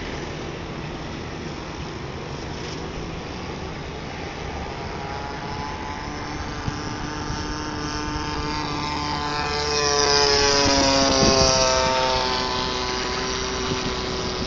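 Single-cylinder DLE-20 two-stroke petrol engine of a radio-controlled Cessna 182 model buzzing in flight. It grows louder about ten seconds in as the plane passes, its pitch dropping as it goes by, then fades a little.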